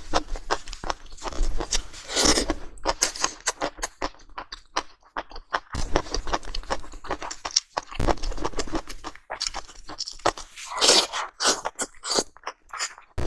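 Close-miked mukbang eating sounds: braised steak being chewed, with many quick mouth clicks and smacks. Longer, louder noisy sounds come at about 2 seconds and again near 11 seconds.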